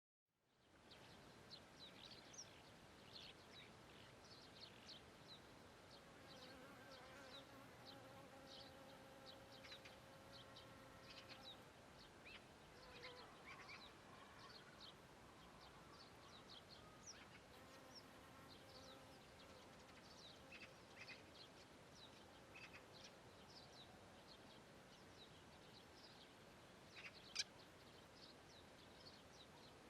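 Faint meadow ambience: a flying insect buzzing through the middle, over many short high chirps of birds and insects. A sharper single chirp comes near the end.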